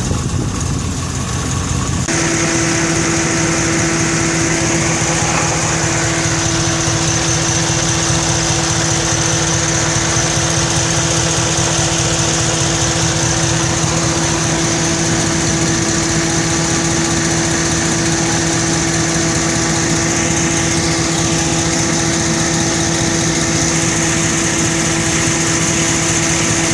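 Ram pickup's Hemi V8 running at idle soon after a cold start, with a steady tone over the engine note; about two seconds in the sound changes abruptly to a stronger, higher steady tone. This is the cold-start noise that dies away after about five minutes, which the owner does not take for the usual Hemi tick or a broken exhaust manifold bolt.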